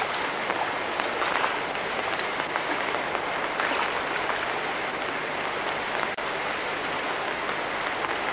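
Rushing water, a steady even hiss with scattered faint clicks.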